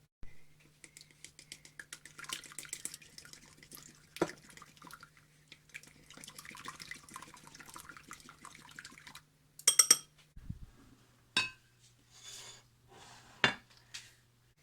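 Kitchen utensils and dishes clinking and scraping through a run of small quick clicks, then several sharp clacks in the second half.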